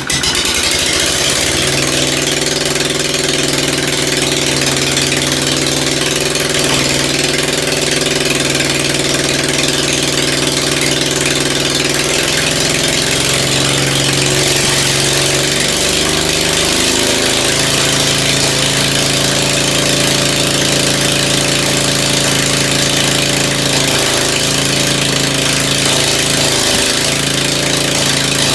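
Old Ford engine firing up and running steadily. Its speed drops and comes back up about halfway through, and wavers again near the end.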